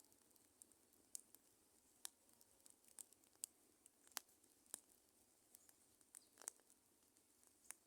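Faint crackling of a wood bonfire: irregular sharp pops and snaps, a few each second, over a soft hiss.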